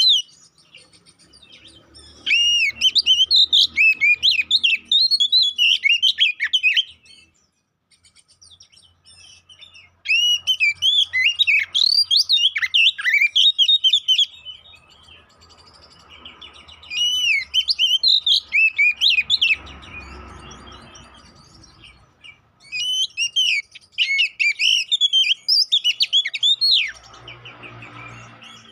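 Male Oriental magpie-robin (kacer) singing its hard, combative song: four bursts of rapid, varied whistled phrases full of sweeping up-and-down notes, each lasting a few seconds, with short pauses between them.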